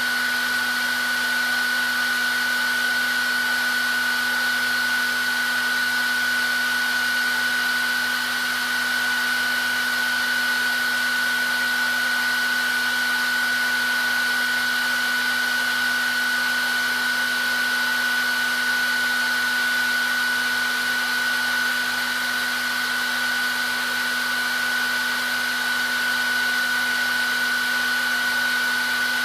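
Hair dryer blowing steadily: an even rushing hiss with a constant high whine from the fan motor and a lower hum underneath, unchanging throughout.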